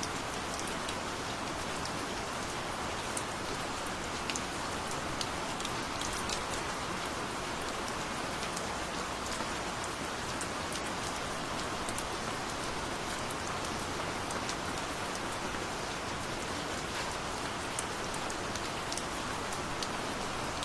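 Steady gentle rain, with scattered individual drops ticking sharply on a surface above the even hiss.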